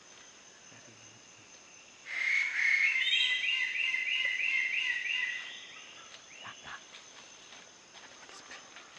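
Wallace's standardwing (pennant bird of paradise) calling: a loud, rapid series of repeated notes lasting about three seconds, starting about two seconds in.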